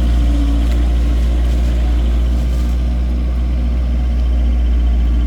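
Engine of a wooden excavator-boat running steadily at an even speed, with a deep, unchanging drone.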